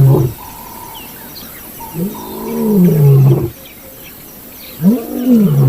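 Male lion roaring: long, deep calls that rise and then fall in pitch, one tailing off just after the start, another about two seconds in, and a third near the end. Faint bird chirps sound in the background.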